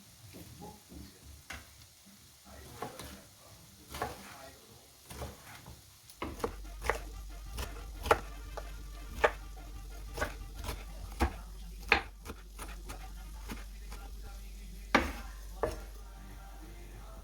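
Kitchen cooking sounds: a utensil clinking and knocking irregularly against cookware, as in stirring. A steady low hum starts about six seconds in.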